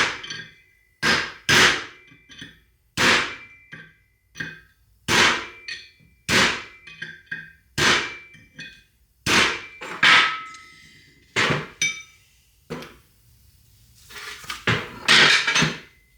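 Hammer blows on steel, driving a stuck bearing race out of a Toyota front hub, each strike sharp with a short metallic ring, about one a second. The blows pause near the end, then a few quicker, softer knocks follow.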